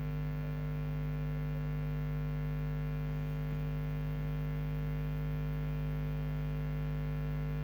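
Steady electrical mains hum: an unchanging low buzz with many steady overtones and nothing else.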